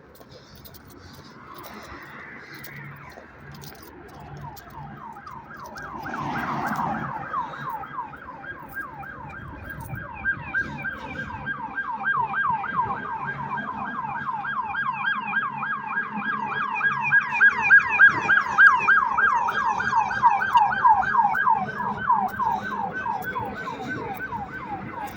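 Emergency vehicle siren in a rapid yelp, sweeping up and down several times a second. It builds from about a quarter of the way in, is loudest just past the middle, and eases slightly near the end, as a vehicle arrives.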